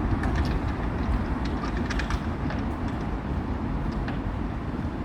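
Steady low outdoor rumble, with a few faint light clicks about two seconds in.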